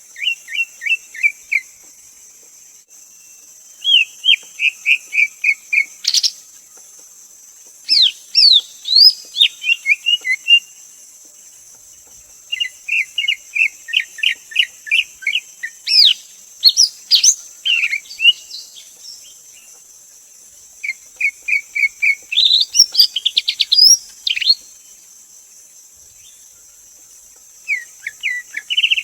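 Greater green leafbird singing: about six bouts of rapid repeated whistled notes and sharp chirps, each a few seconds long with short pauses between. A steady high-pitched drone runs underneath.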